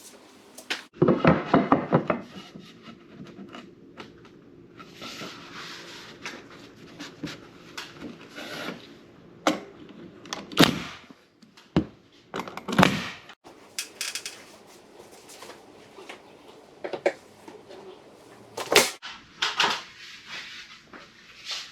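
Carpentry work on wooden boards and trim: a quick run of rapid clicks about a second in, then scattered sharp knocks and taps, broken by several abrupt cuts.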